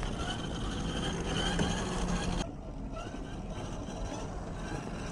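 RC4WD Land Cruiser FJ40 scale RC crawler driving off-road, with short rising whines from its electric motor and gears over rough outdoor noise. There is a cut about halfway through.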